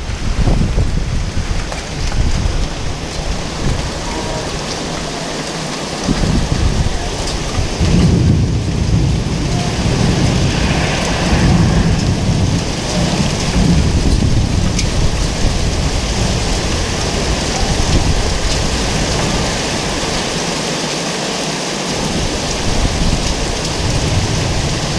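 Heavy thunderstorm rain pouring down steadily, with a low rumbling that swells and eases several times.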